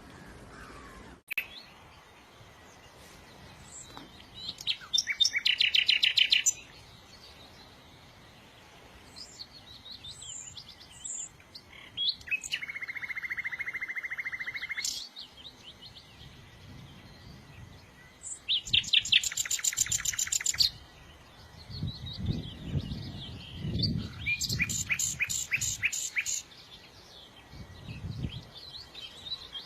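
A small songbird sings in bursts of rapid trilled chirps a few seconds apart, one phrase a lower buzzy trill. A low rumbling underlies the second half.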